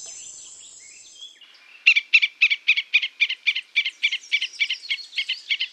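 A steady high insect trill fades out in the first second or so, then about two seconds in a rapid run of sharp, evenly repeated chirps starts, about five a second.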